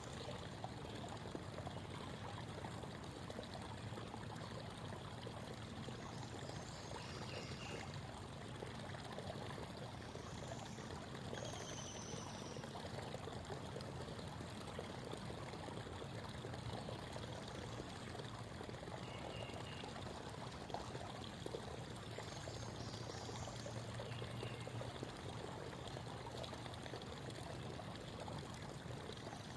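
Creek water babbling and trickling steadily. A few faint, high bird chirps come through over it now and then.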